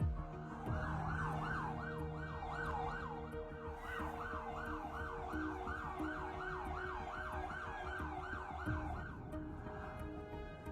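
Emergency vehicle siren in a fast yelp, rising and falling about three times a second; it starts just under a second in and fades out near the end.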